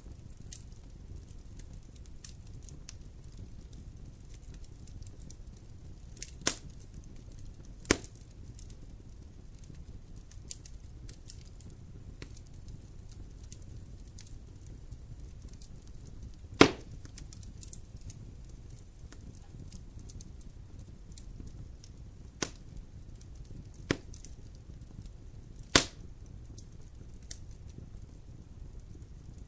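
Wood fire burning in a fireplace: a steady low hiss with constant faint crackling, broken by about six sharp pops of burning wood, the loudest about halfway through and near the end.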